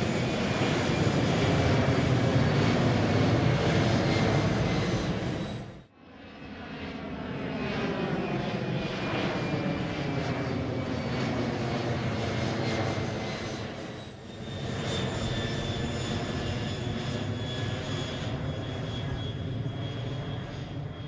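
Jet airliner's engines passing by, a steady rush with whining tones that slide down in pitch. The sound breaks off sharply about six seconds in, then comes back and dips briefly again around fourteen seconds.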